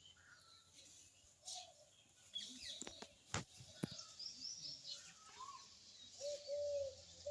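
Birds chirping faintly in short high calls, with two sharp clicks about three and a half seconds in and a run of lower warbling calls near the end.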